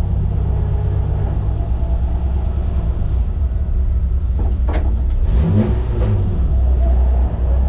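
BMW M20B25 2.5-litre straight-six engine running, heard from inside the E30's cabin: a steady low drone with a brief swing in pitch and a couple of short clunks about five seconds in.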